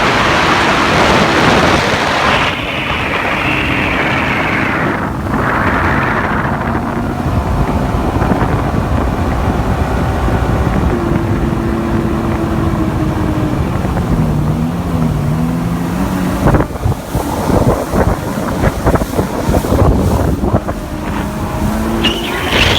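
Mercury 150 Black Max two-stroke V6 outboard running a bass boat under way, with heavy wind noise on the microphone. The engine pitch wavers up and down in the middle, and from about two-thirds of the way through, uneven buffeting bursts break in.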